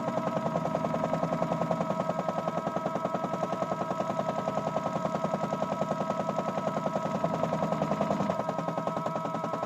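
Miele W1 toy washing machine running its wash, the small electric motor whining steadily over a fast, even rattle from the turning drum; about eight seconds in, the lower part of the sound falls away.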